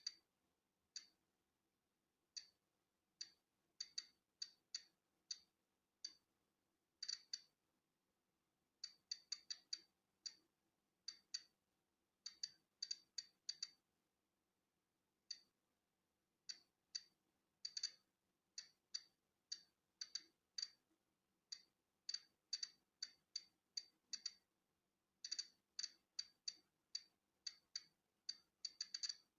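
Polon EKO-C digital Geiger counter clicking at irregular, random intervals, about two short high ticks a second on average and sometimes several in quick succession. Each click is one particle detected from natural background radiation.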